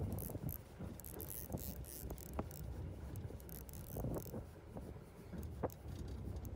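Steady low rumble of a fishing boat's engine, with a few scattered sharp clicks and knocks over it.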